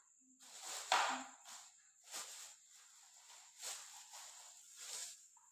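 Rustling and handling of packaging while a new vacuum device is unboxed: about five noisy bursts, with a sharp click about a second in.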